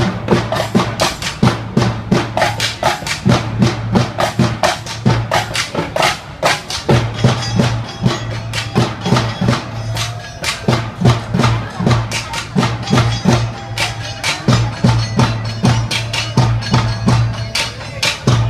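Rampak group drumming: an ensemble of traditional Indonesian drums played together in a fast, dense rhythm with many strikes a second.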